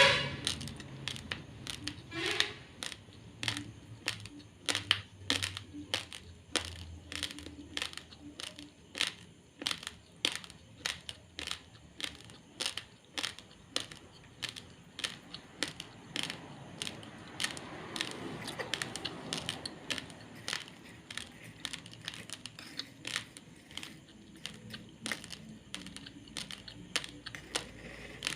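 Close-up crunching of raw, uncooked basmati rice grains being chewed: sharp dry crunches about two a second. There is a louder burst of crunching right at the start and again about two seconds in.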